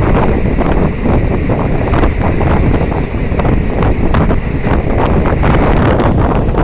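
Heavy wind buffeting the microphone in gusts over a steady low rumble.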